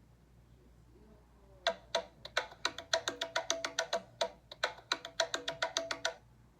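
An iPhone 6s Plus ringtone playing: a fast run of short, tapped, pitched percussion notes in two quick phrases, starting about a second and a half in and stopping about a second before the end.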